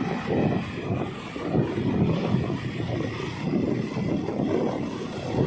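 Wind buffeting the camera microphone on a moving scooter: a low, uneven rumble that swells and dips, with the ride's vehicle noise underneath.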